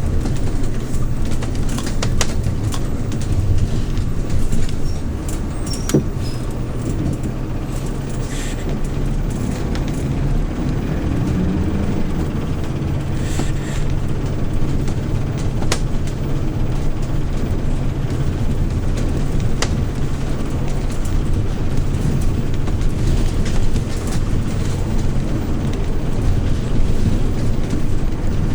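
Engine of a 2013 Hyundai New Super Aero City CNG city bus running steadily in service, a continuous low hum with scattered clicks and rattles.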